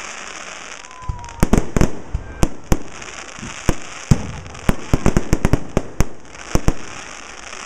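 A fireworks display with aerial shells bursting overhead. It opens with a steady high crackle, then a rapid, irregular run of sharp bangs, then settles back into crackle near the end.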